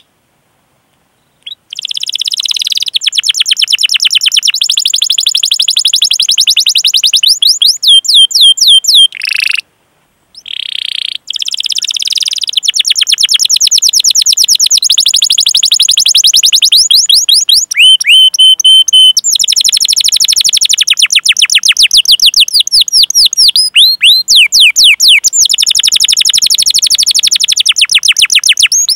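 Domestic canary singing a long rolling song of fast repeated high chirps, with downward-sweeping notes and a briefly held whistle partway through. It begins after a short silence and breaks off once for about a second a third of the way in.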